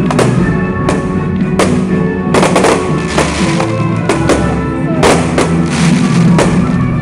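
Fireworks bursting one after another, a sharp bang every half second or so, over loud music played for the show.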